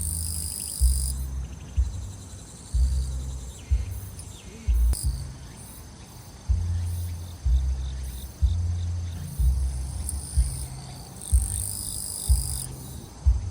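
Grass insects such as crickets chirring steadily in a high register, with two louder bursts of about a second near the start and about eleven seconds in. Under them, thumping bass music from the surroundings beats roughly once a second and is the loudest sound.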